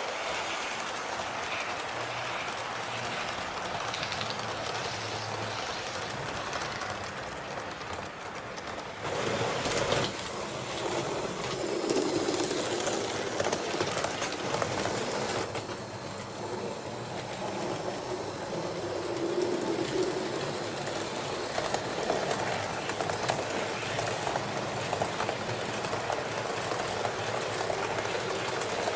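H0-scale (1:87) model train running on layout track, with a sudden change in the sound and a louder passage from about nine seconds in.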